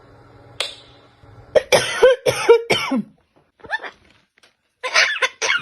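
A parrot giving a series of short calls in quick groups, starting about a second and a half in, after a single sharp click.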